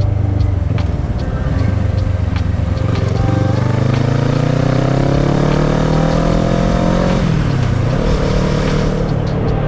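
Kawasaki ER-6n's parallel-twin engine under way, running low and steady at first, then pulling with a rising pitch for about four seconds. About seven seconds in the pitch falls away sharply, and the engine then settles to a steady note. Wind and road noise throughout.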